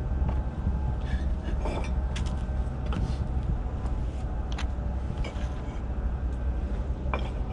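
Bricks being set in place for a dry-laid fireplace mantel shelf: a few separate sharp clicks and knocks, over a steady low hum.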